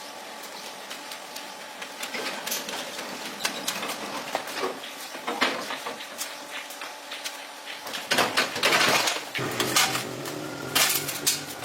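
Metal clinks and knocks of tools and engine parts being handled, irregular, with a louder burst of rough noise about eight seconds in.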